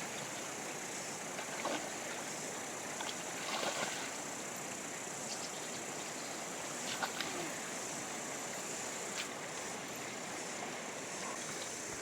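Steady rush of a fast-flowing river, with a few short knocks and clicks over it.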